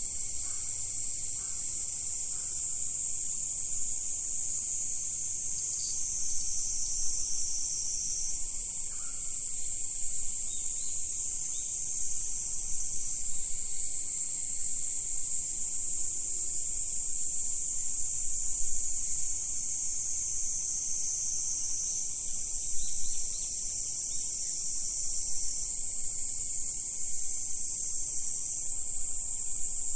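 A dense chorus of insects calling, a steady, shrill, high-pitched buzz without pauses that swells a little now and then.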